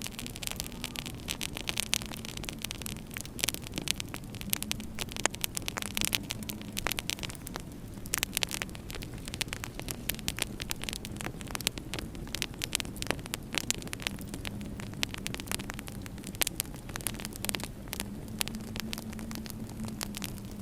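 Fireplace wood fire crackling, with many irregular sharp pops and snaps over a steady low rumble and a faint, wavering hum.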